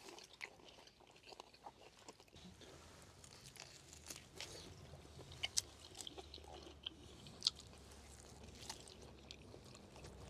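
People chewing and biting food, faint, with a few sharp clicks; the two loudest come about five and a half and seven and a half seconds in.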